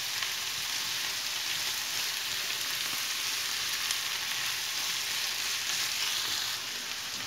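Ground beef, mushrooms, tomatoes, onion and green peppers sizzling steadily in a frying pan while being stirred with a silicone spatula. The sizzle eases slightly about six and a half seconds in.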